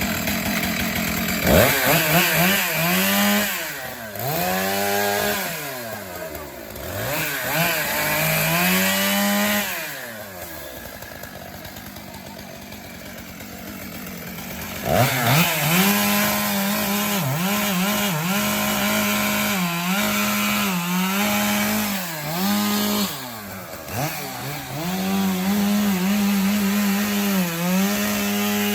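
Gas chainsaw revved up and down several times, then dropping to a quieter idle for a few seconds. About halfway through it goes to full throttle and holds, its pitch dipping again and again as it bogs in a cut through wood.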